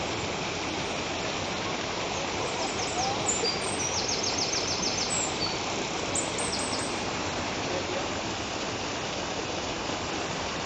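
Steady rushing of a flowing river, with a bird singing a quick series of short, high notes from about two and a half to seven seconds in.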